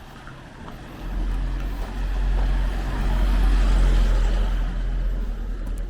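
A motor vehicle driving past close by: its engine and tyre noise grows louder about a second in, peaks around four seconds, then fades.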